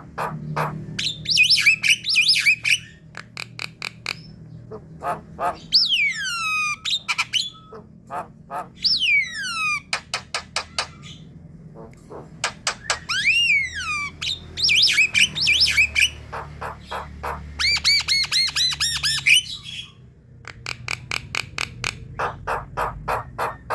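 Javan mynas singing: fast runs of harsh clicks and rattles mixed with sharply falling whistles and quick repeated chattering notes, in bouts broken by short pauses.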